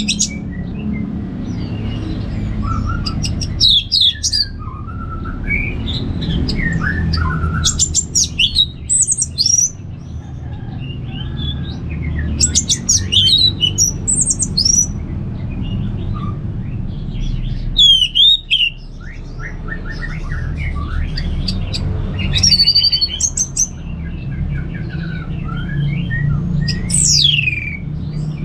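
Orange-headed thrush (anis merah) in full, free song: loud, varied phrases of gliding whistles, slurred notes and quick rattling trills, one every few seconds, over a steady low background rumble.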